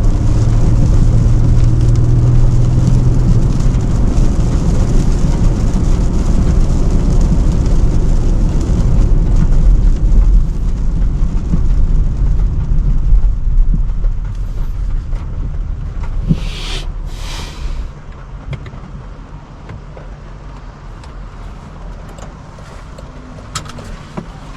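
Range Rover Sport driving on a wet road: steady low rumble and tyre noise that die away over the second half as the car slows, with two short hisses a little over a second apart near the end.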